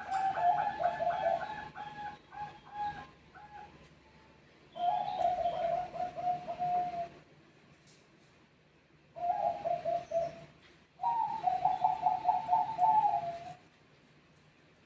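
Zebra doves of the Bangkok perkutut type cooing in rapid, pulsed phrases, calling back and forth in four bouts of a few seconds each. The last phrase stops about three-quarters of the way through.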